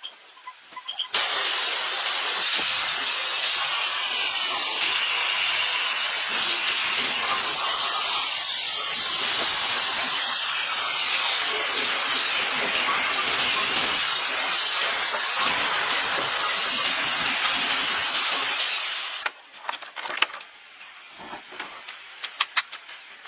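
A loud, steady high-pressure hiss that starts about a second in, runs for roughly 18 seconds and cuts off abruptly, followed by a few light clicks.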